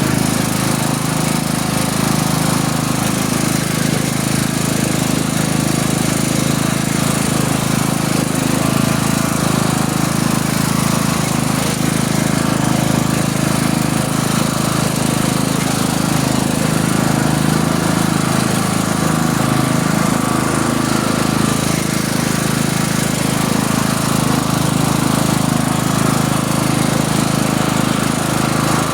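A motor runs steadily at a constant speed, with no change in level or pitch.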